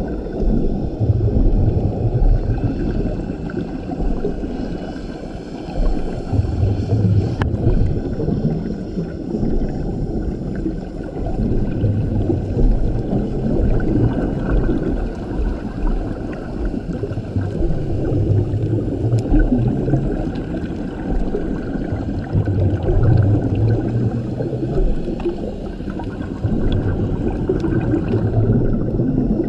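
Scuba diver's regulator breathing underwater, with exhaled bubbles gurgling and rumbling out in surges every few seconds and steady muffled ocean noise between breaths.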